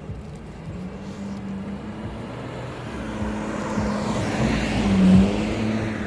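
A car driving past on the street: engine hum and tyre noise build as it approaches, are loudest about five seconds in as it passes close, then begin to fade.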